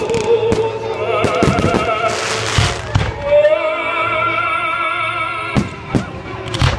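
Fireworks going off over loud music with an operatic singing voice holding long, wavering notes. Several sharp bangs, one about halfway through and a few near the end, and a burst of crackling a little after two seconds in.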